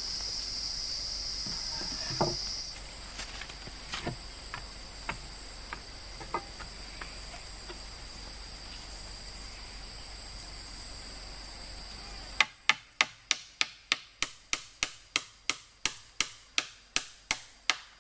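Rainforest insects trilling steadily on two high tones, with a few scattered small knocks. About twelve seconds in, the background cuts away and a fast, even run of sharp tool blows on wood follows, about three a second.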